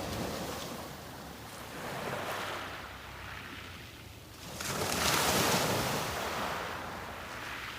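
Sea waves breaking and washing up on a beach, the surf swelling and fading; the largest wave breaks sharply about halfway through and washes back over the following seconds.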